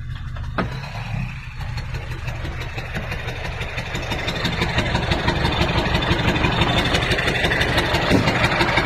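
Vehicle engine running through a newly fitted, welded exhaust pipe. A brief click comes about half a second in, and the engine grows louder about halfway through.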